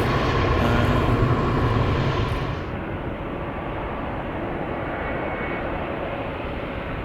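Airliner engine noise at the airport, louder for the first three seconds, then dropping suddenly to a steadier, duller rumble.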